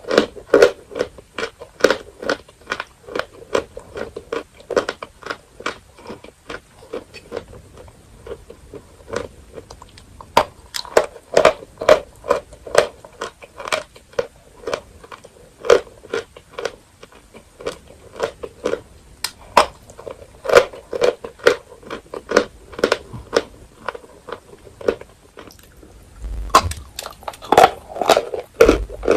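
Dry edible chalk being bitten and chewed: a run of crisp crunches, about two or three a second, thinning out briefly a couple of times.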